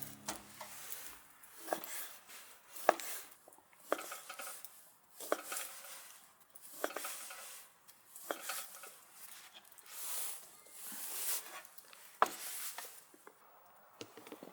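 A metal utensil scraping and clinking against cookware, as in stirring, with a sharp clink about every second and a half and a soft scrape between them.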